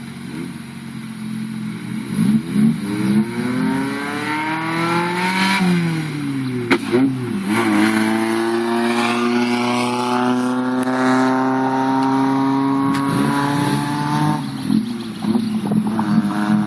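Nissan Sunny GTS engine through a Magnaflow aftermarket exhaust, accelerating. Its note climbs, drops sharply about five to six seconds in, then makes a long, slow climb before falling off near the end.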